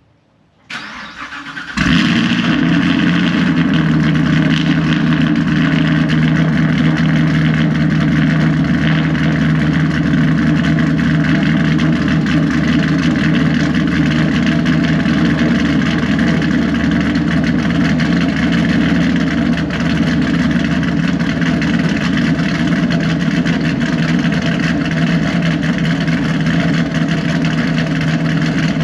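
Cold start of a cammed 2018 Chevrolet Camaro SS's 6.2-litre LT1 V8: the starter cranks briefly, the engine catches about two seconds in and settles into a loud, steady idle.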